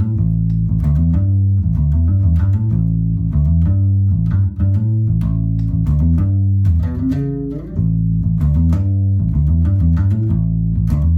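Fender Precision electric bass played through an amp: a riff of plucked low notes in quick succession, with a note sliding up in pitch about seven seconds in.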